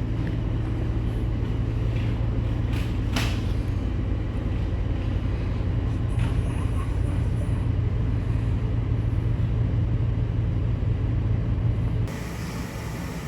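Steady low hum of a cargo ship's machinery running, carried through the accommodation spaces, with a faint click about three seconds in. Near the end the hum drops away abruptly to a lighter hiss.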